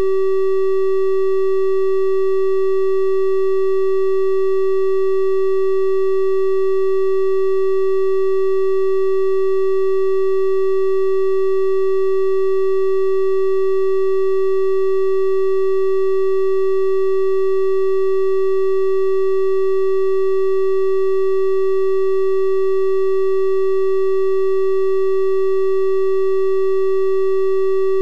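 A steady electronic 384 Hz triangle-wave tone, held unchanged at one pitch with faint higher overtones.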